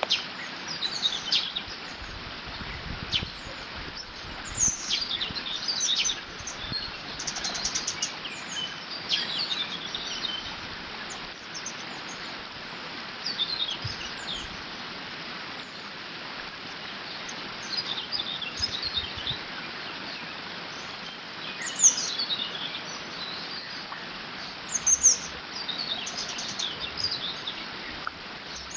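Several birds singing and calling with quick chirps, trills and short whistled phrases over a steady rush of water pouring through a beaver dam.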